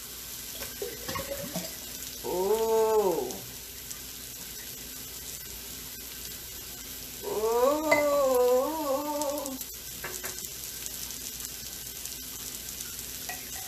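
Hash browns frying in a pan with a steady sizzle, and two drawn-out pitched vocal sounds over it: a short rise-and-fall about two seconds in and a longer wavering one about seven seconds in.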